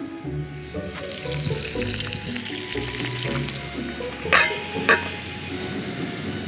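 Food sizzling as it fries in a pan, a steady hiss with two sharp clinks near the middle, over background music.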